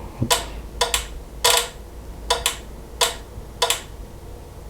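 Turn-signal flasher clicking in a steady rhythm, a click or a quick double click about every three quarters of a second, as the truck tail light blinks as a turn signal.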